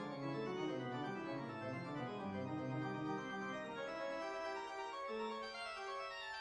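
Organ music: a steady run of notes and chords, with a low note held near the end.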